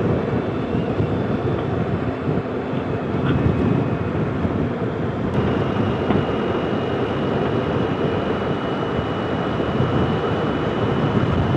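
Wind and road noise buffeting a motorcycle helmet microphone while riding at road speed, a steady low rush with the bike's engine underneath. A faint steady high whistle joins in about five seconds in.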